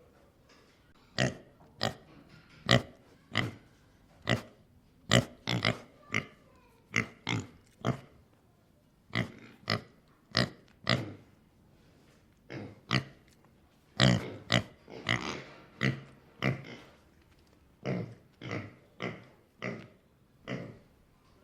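Domestic pig grunting: a long run of short grunts, about two a second, broken by brief pauses.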